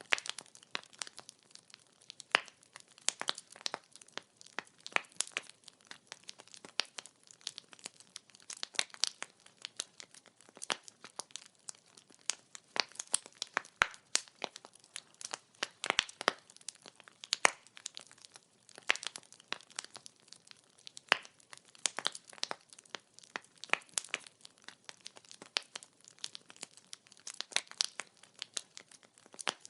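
Burning firewood crackling: irregular sharp pops and snaps, several a second, some louder than others.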